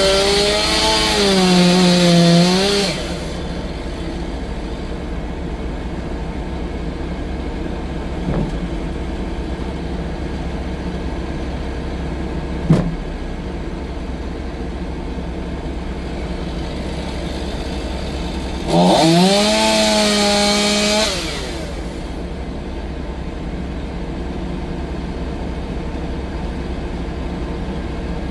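Chainsaw running at idle and opened up to full throttle twice, each time for two to three seconds: once at the start and again about two-thirds of the way through, its pitch rising quickly each time. A single sharp knock comes about halfway.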